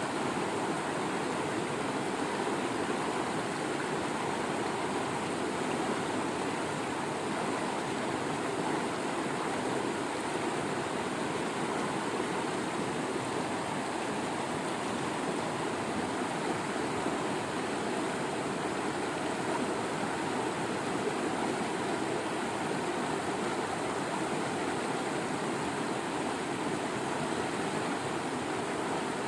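Waterfall water rushing and splashing in a steady, unbroken noise.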